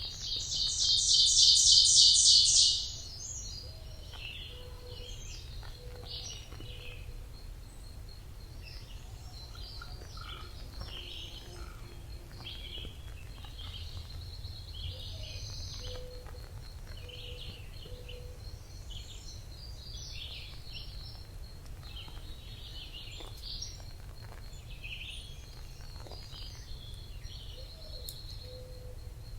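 Forest birdsong: a loud, rapid trill for the first three seconds, then many scattered chirps and calls from several birds, including a fast high repeated note and a low repeated note, over a steady low rumble.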